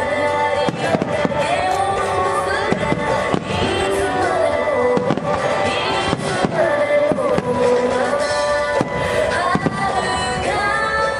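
Fireworks bursting, with many sharp bangs at irregular intervals, over loud music.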